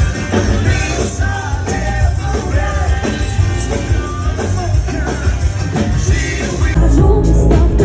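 A live cover band playing a rock-and-roll song, with a singer's voice over drums, bass and guitar; the band gets louder and fuller about seven seconds in.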